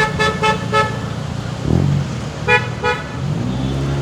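Car horn tooting in short quick beeps, four in the first second and two more about two and a half seconds in, over a vehicle engine running, its pitch rising twice as it speeds up.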